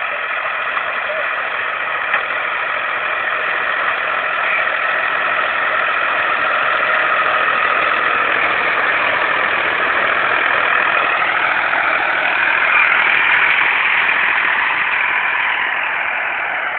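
Tractor engine running steadily, its pitch and loudness rising slightly about eleven seconds in.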